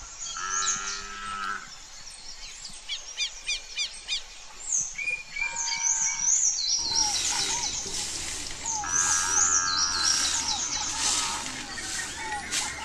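Small birds chirping and trilling over farmyard ambience. From about halfway through, a stiff twig broom sweeps bare dirt in repeated scratchy swishes.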